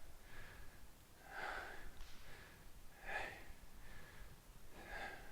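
A person breathing out hard in three faint breaths, about one every second and a half to two seconds, from the exertion of a set of calf raises.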